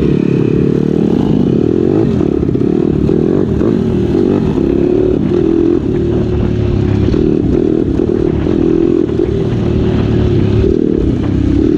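Road-legal pit bike engine running as the bike is ridden, the revs rising and falling early on and then holding fairly steady.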